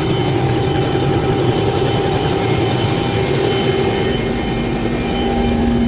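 Helicopter running: a steady engine and rotor noise with a constant whine, and a lower steady tone joins about four seconds in.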